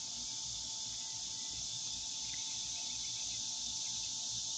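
Steady outdoor insect chorus: a continuous high-pitched buzzing hiss that does not let up, with a faint steady hum underneath.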